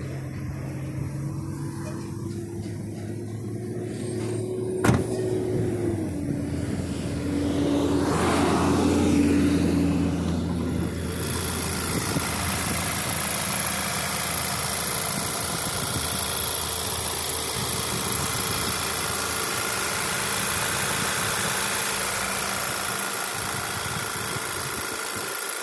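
Volkswagen Eos's TSI turbocharged four-cylinder petrol engine idling steadily, with a single sharp click about five seconds in. From about eleven seconds in the engine is heard with the hood open, louder and brighter with a busy hiss.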